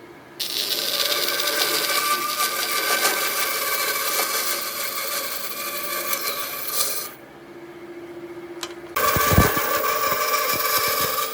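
An electric power tool working wood, running with a steady whine over a grinding noise. It starts about half a second in, cuts off about seven seconds in, and starts again near nine seconds with a knock.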